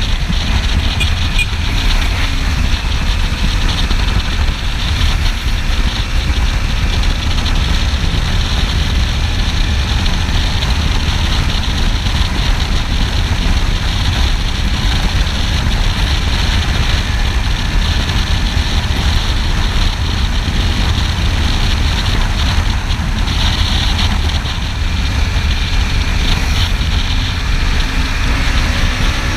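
Kawasaki Ninja 300 motorcycle on the move: its engine runs steadily under a loud, constant rush of wind and road noise on the camera microphone.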